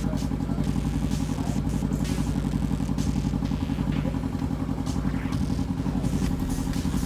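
Motorcycle engine running steadily at a constant speed, with a fast, even low pulsing of its firing throughout.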